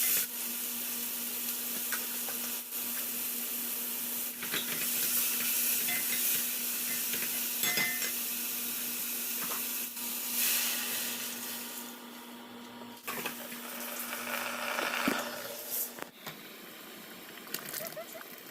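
Food frying in a pan with a steady sizzle while utensils clatter and scrape against the cookware; the sizzle drops away about twelve seconds in, leaving occasional knocks over a steady low hum.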